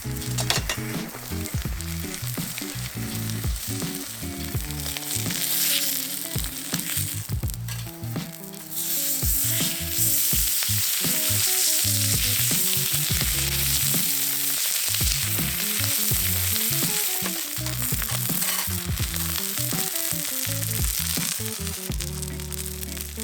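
Food frying in a hot pan over a wood fire, a steady sizzle that grows much louder about nine seconds in.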